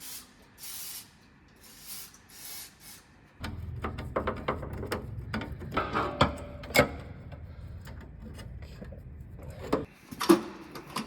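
Hand tools working loose the sheet-metal engine tinware on an air-cooled VW Beetle engine. Short scraping and rubbing strokes come first, then a run of metal clicks and knocks over a low hum.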